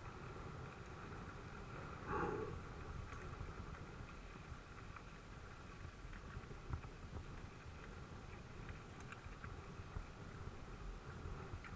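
Specialized Enduro mountain bike being ridden over a dirt track: steady rumble of tyres and frame rattle with scattered small clicks, and one louder knock about two seconds in.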